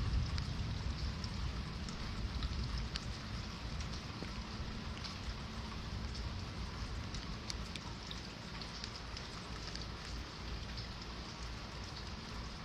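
Steady rain falling, with scattered drops ticking sharply on nearby surfaces and a low rumble underneath.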